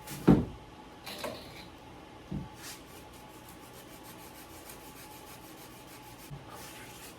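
Small wooden aircraft parts being handled and fitted on a workbench: one sharp wooden knock, a few lighter knocks, and faint rubbing strokes.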